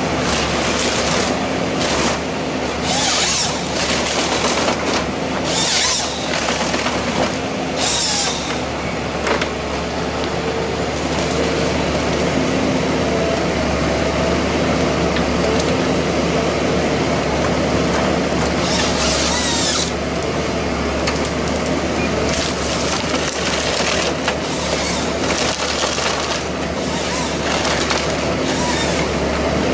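Heavy forestry machine engine running steadily under load, with several short bursts of wood splintering and shredding, the first three in the first eight seconds and another near twenty seconds in.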